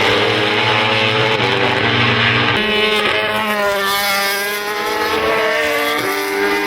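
990cc four-stroke MotoGP race motorcycles running at full throttle past the track, engines at high revs. The engine note changes pitch in steps several times as the riders shift gears.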